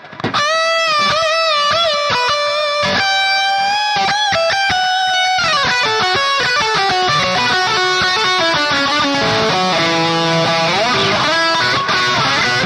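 Jackson SL2 Pro Soloist electric guitar played on its bridge pickup: held lead notes with wide vibrato, turning into faster, busier playing from about five seconds in.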